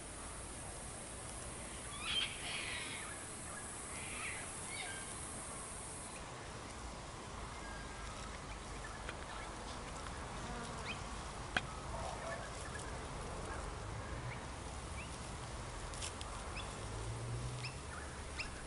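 Quiet bush ambience with a few short bird calls, the clearest about two and four seconds in, and scattered faint ticks over a low steady rumble.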